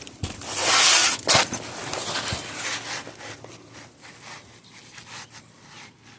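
Asphalt shingles being handled and lifted: a loud rasping scrape about a second in, then lighter scraping and scattered clicks.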